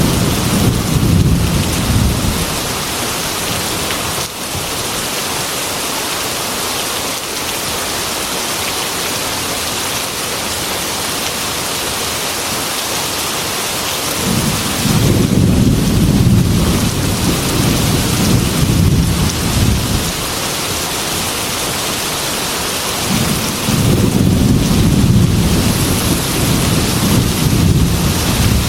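Heavy rain hissing steadily against a glass window, with rolls of thunder rumbling in three times: once at the start, again from about halfway, and once more near the end.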